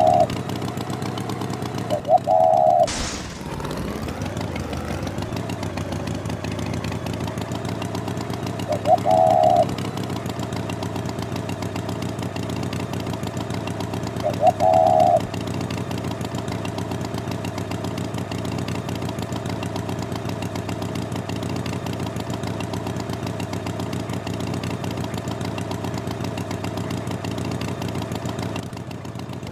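Tractor engine running steadily, with a short horn toot four times and a falling whoosh about three seconds in.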